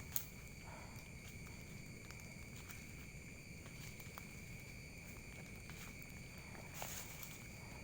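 Faint steady ambience with several thin high-pitched tones held throughout, a few soft clicks, and a brief rustle about seven seconds in.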